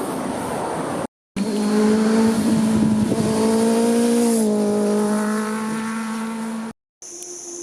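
Sport motorcycle passing at high revs. Its strong, steady engine note drops in pitch once as it goes by, about halfway through. Two brief silent cuts, one after the first second and one near the end.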